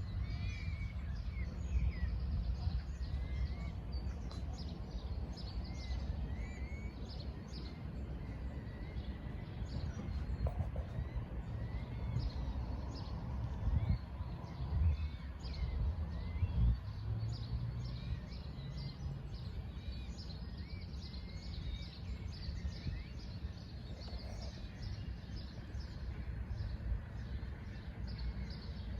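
Several small birds chirping and calling in short, repeated notes over a steady low rumble, with a few louder low bumps about halfway through.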